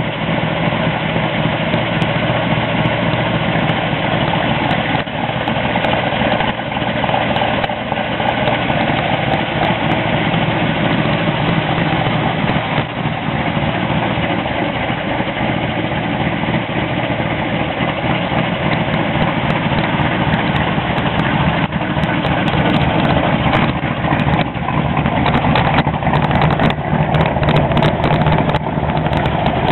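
1969 Chevrolet Camaro SS's 396 cubic-inch big-block V8 idling steadily.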